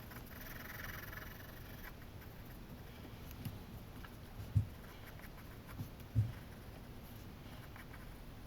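Sharp pencil scratching on paper in short drawing strokes, clearest in the first two seconds and fainter after. Two soft low thumps come about four and a half and six seconds in.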